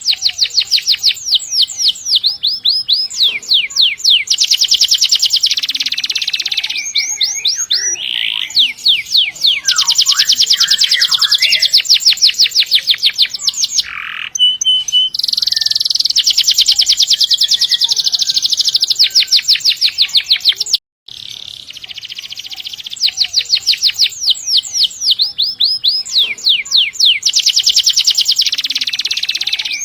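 Domestic canary singing long, fast rolls: trills of rapidly repeated high notes, one phrase after another, breaking off for a moment about two-thirds through.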